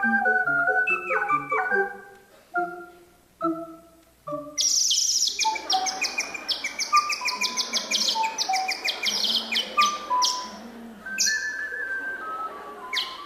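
Ocarina ensemble playing a few short, separated notes, then, about four and a half seconds in, a burst of rapid high twittering that imitates birdsong over a few held low notes.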